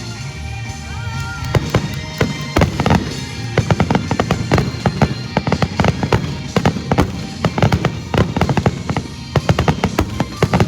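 Fireworks bursting in a rapid barrage of sharp bangs, starting about a second and a half in, over music playing.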